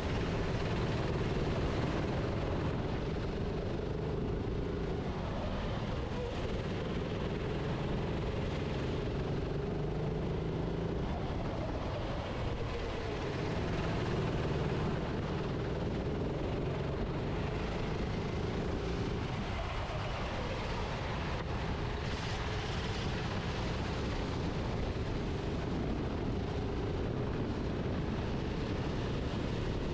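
Kart engine heard onboard, running hard with its pitch dropping and climbing back several times as the kart slows for corners and accelerates out.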